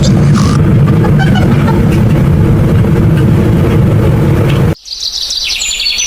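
A loud, steady engine rumble that cuts off abruptly near the end, followed by birds chirping.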